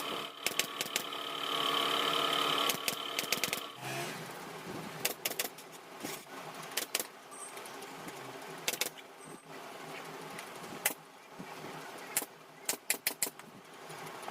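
Sharp mechanical clicks and taps, singly and in quick clusters of three to five, over a steady machine hum that stops about four seconds in.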